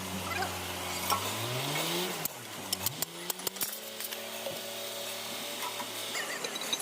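A motor or engine running, its pitch rising steeply and then dropping about halfway through, then holding steady for a few seconds, amid sharp metallic clinks like tools being handled.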